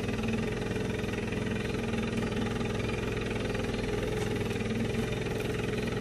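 Boat engine running steadily at low speed, an even hum.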